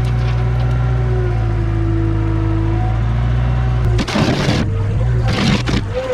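A 1988 Toyota SDK7 skid steer's engine running steadily; about four seconds in, the steady drone breaks off into irregular rattling bursts of noise.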